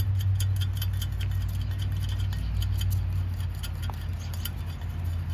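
Light, quick ticking of the small parts of a tire valve stem being fitted by hand into an ATV rim, over a steady low hum.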